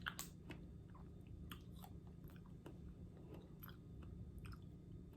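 Close-miked chewing of caramel-dipped apple: faint, irregular crunches and clicks, a little louder at the start.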